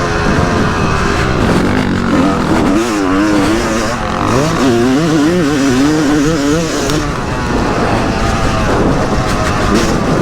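Yamaha YZ250 single-cylinder two-stroke motocross engine being ridden, its pitch rising and falling quickly with throttle changes, over a steady rush of noise.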